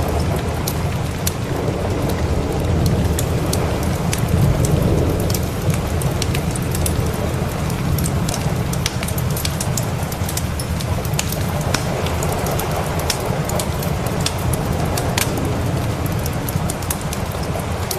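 Steady rain with a low rumble of thunder that swells slightly about four seconds in, over the sharp pops and crackles of a wood fire in a fireplace.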